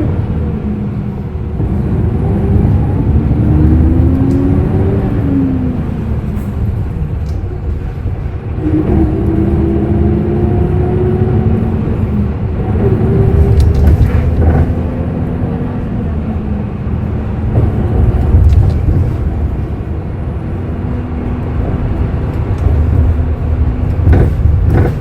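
Hyundai Green City CNG city bus with a C6GB natural-gas engine driving in traffic. The engine note climbs as it pulls away, drops back and climbs again several times, with a low steady rumble underneath and a few short clicks and knocks.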